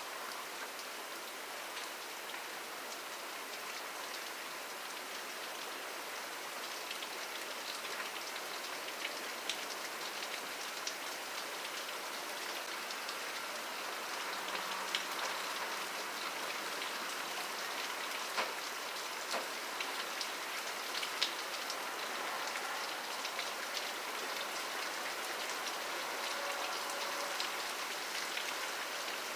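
Steady rainfall with individual drops ticking and pattering on a surface, growing a little louder over the stretch.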